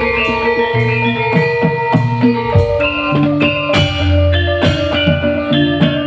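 Live band playing an instrumental passage: struck pitched percussion ringing over a deep bass line, with steady drum strokes.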